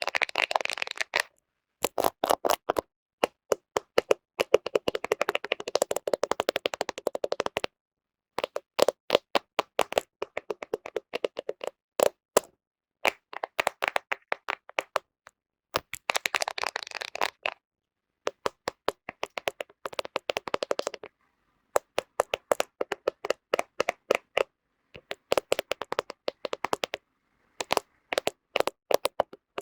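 Fingernails tapping rapidly on a camera, in quick runs of clicks a second or so long with short pauses between them.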